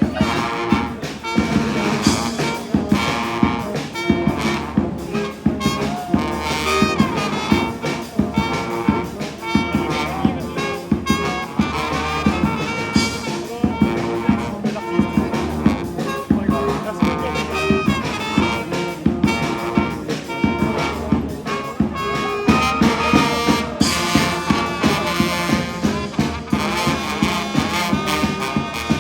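Jazz-style brass music with trumpet and trombone over a steady beat.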